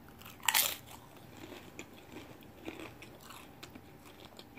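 A bite into a crisp tortilla chip gives one loud crunch about half a second in, followed by quieter crunchy chewing.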